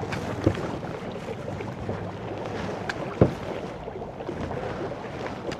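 Kayak paddles dipping and splashing through the water over a steady wash of water, with two sharp knocks, one about half a second in and one a little after three seconds.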